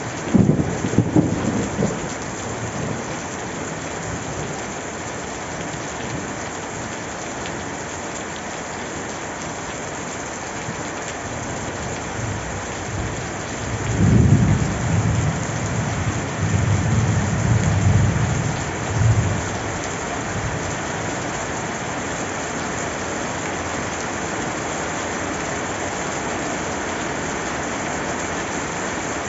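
Steady rain falling, with thunder rumbling twice: a short rumble right at the start and a longer, louder roll from about fourteen to nineteen seconds in.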